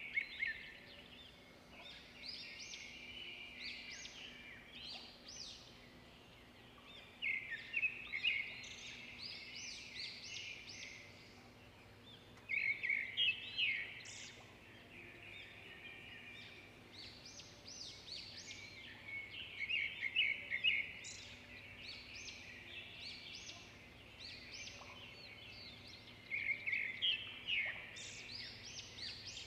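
Outdoor birdsong: bursts of rapid, chattering high notes that come back about every six seconds, over faint steady background noise.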